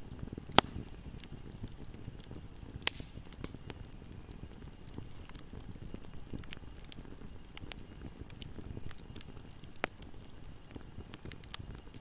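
Campfire burning with a steady low rush of flames and scattered crackles and pops of burning wood, a few sharper loud pops about half a second in, around three seconds in and near the end.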